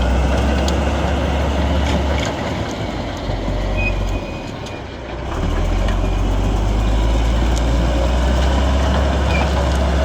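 Large crawler bulldozer's diesel engine working under load with a deep, steady drone; the engine eases off for a few seconds around the middle, then pulls hard again.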